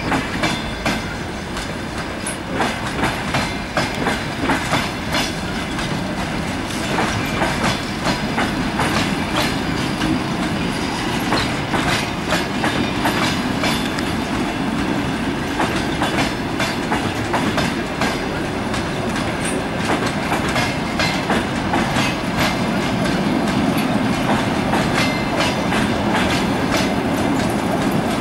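Passenger train coaches rolling past, their wheels clicking and clattering over the rail joints in an uneven string of beats over a steady rumble.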